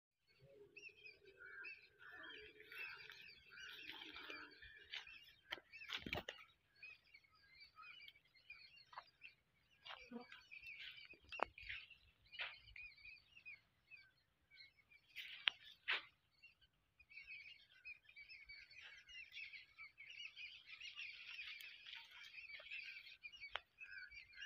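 Faint birds chirping and calling, with a few brief sharp sounds in the middle.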